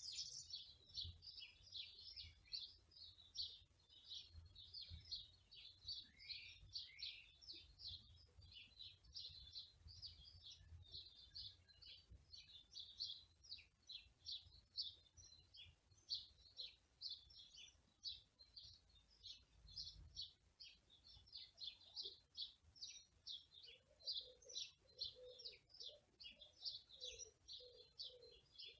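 Small songbirds chirping and twittering continuously in fast, high notes. From about 24 seconds in, a lower, evenly repeated call joins them.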